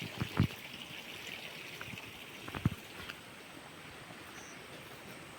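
Shallow water trickling steadily, with a few short knocks near the start and again about two and a half seconds in.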